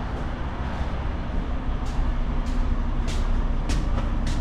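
Semi truck engine running steadily, heard with a low rumble and a faint steady hum, with a sharp click repeating about every half second or so through the second half.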